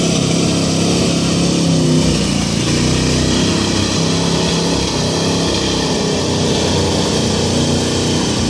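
Pickup truck engine running loud and steady under heavy load, pulling a weight-transfer sled down the track.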